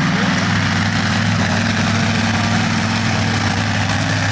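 Supercharged monster truck engine running steadily at a low, even pitch.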